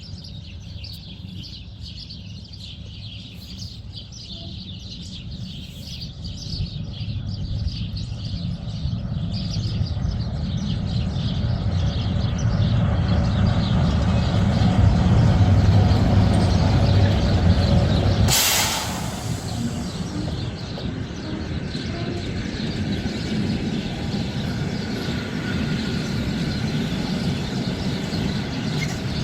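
Train rumbling as it draws near, growing steadily louder, then a sudden sharp hiss of air brakes about eighteen seconds in, after which a lower, steadier rumble goes on.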